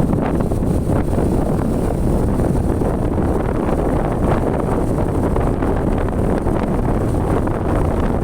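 Steady wind rush buffeting the microphone on a moving motorcycle, with the motorcycle's running noise beneath it.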